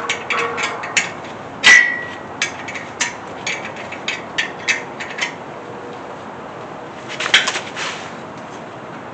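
Metal clinks and clicks of hand tools and bolt hardware against metal. There is one louder, ringing clank about two seconds in and a quick cluster of clicks near the end.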